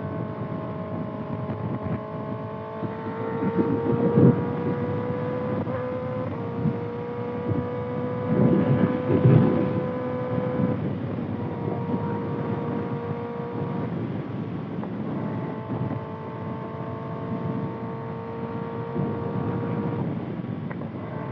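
Kawasaki ZX6R's 636 cc inline-four, through a Voodoo Racing slip-on exhaust, running at steady cruising revs, its note slowly rising and stepping down a few times as gears change. Wind buffets the microphone throughout, with louder gusts about four and nine seconds in.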